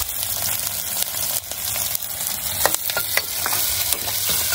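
Chopped onion and tomato sizzling in hot oil in an aluminium pressure cooker, stirred with a steel ladle that now and then clicks and scrapes against the pot.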